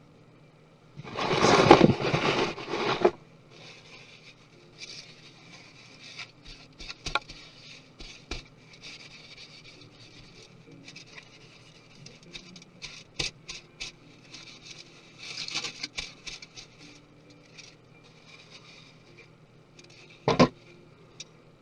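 Tools and parts of a MacBook Pro being handled during disassembly. A loud scraping rustle about a second in is followed by soft scrapes and light clicks, and a sharper knock comes near the end.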